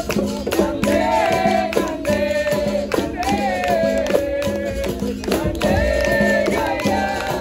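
Live capoeira roda music: voices singing a song over berimbau with its caxixi rattle and a pandeiro tambourine keeping a steady rhythm.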